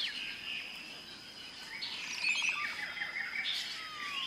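Birds chirping: scattered short high chirps and a falling whistle near the end, over a faint outdoor background.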